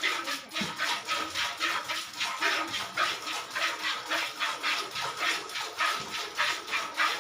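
Milk squirting into a pail as a cow is milked by hand: an even rhythm of short squirts, about two to three a second.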